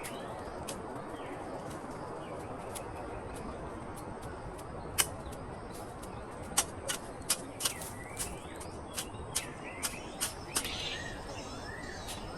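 Forest background with birds giving short chirping calls near the start and again near the end. In the middle comes an irregular run of about a dozen sharp clicks or snaps, the loudest sounds here.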